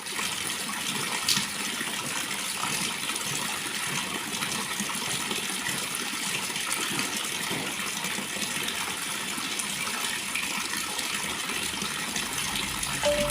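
Water pouring steadily from a pancuran, a spout of falling water, splashing without a break.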